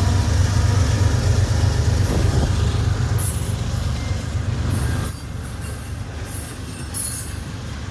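Train passing close by: a low rumble of wheels on rail that eases off about five seconds in, with short high-pitched squeals in the second half.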